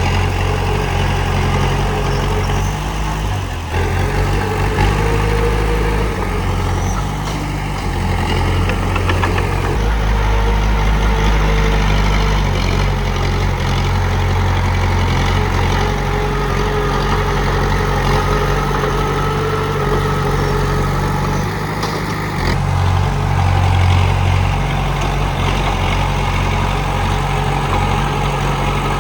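Komatsu D31P bulldozer's diesel engine running steadily, its low note shifting a few times as the machine works.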